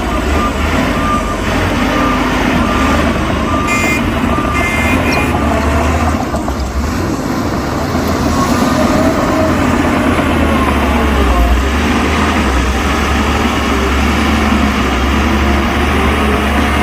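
Heavy diesel dump truck running with its reversing alarm beeping about once a second for the first few seconds, then the engine revs up.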